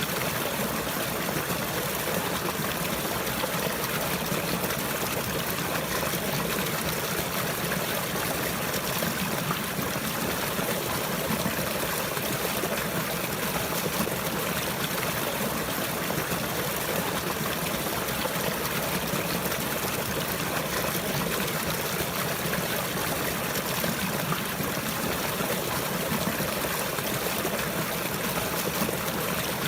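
Running water flowing and trickling steadily, an even, unbroken rush.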